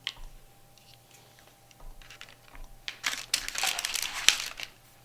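Art supplies handled on a tabletop: scattered small clicks and taps, then a dense burst of crinkling and crackling for about a second and a half, starting about three seconds in.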